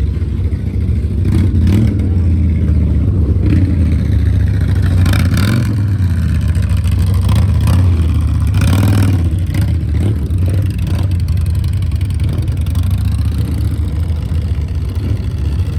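Motorcycle engines running steadily with a constant low rumble, a few brief rises in the middle, and crowd voices in the background.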